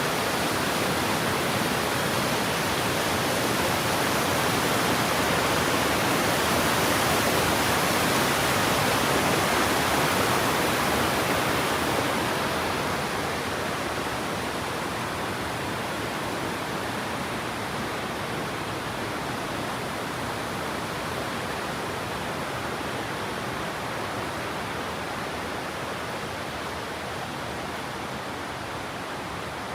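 Waterfall, a steady rush of falling water. Loudest in the first twelve seconds or so, then a little quieter and duller.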